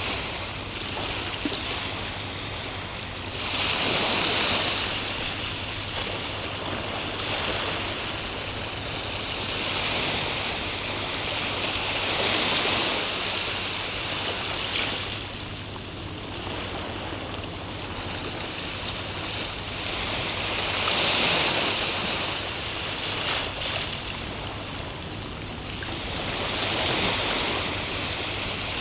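Ocean surf: a steady rush of breaking waves that swells and fades again and again, a surge every several seconds as each wave breaks and washes in.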